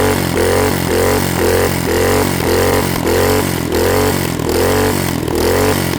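Small single-cylinder 212 engine being blipped, its pitch rising and falling in a steady pulse about twice a second as it is tested. It runs cleanly after earlier popping on choke.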